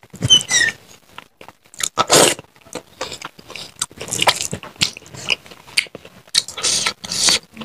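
Eating sounds of a mouthful of rice and curry eaten by hand: wet chewing and lip-smacking in irregular short smacks.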